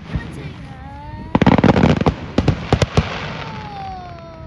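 Fireworks exploding: a fast rattle of crackling bangs about a second and a half in, then a few single sharp bangs, before the display dies away.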